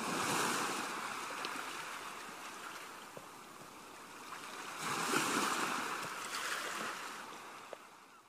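Sea surf washing onto the shore, rising and falling in two swells about five seconds apart.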